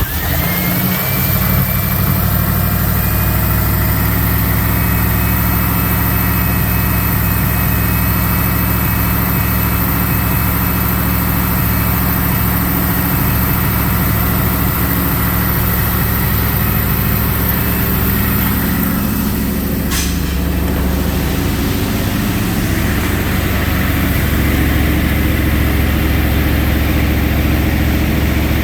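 1989 Dodge Ram 1500's 5.2-litre V8 idling steadily just after starting. A high tone slides down and settles in the first couple of seconds, and there is a single sharp tick about twenty seconds in.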